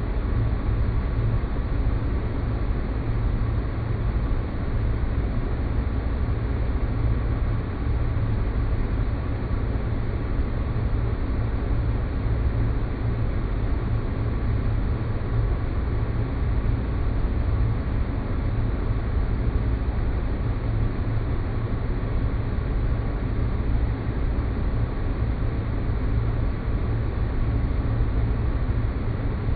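Synthetic sci-fi ambience: a steady deep rumbling noise drone with a faint, thin steady tone in the middle. It holds at an even level with no events or changes.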